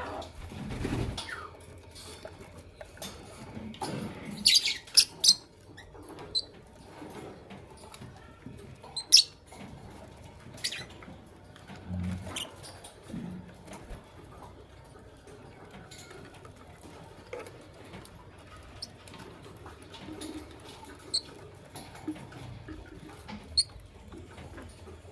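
Fischer's and masked lovebirds moving about in their cage: scattered small clicks and scratching, with a few short, sharp chirps, loudest three in quick succession about four to five seconds in and one more near nine seconds.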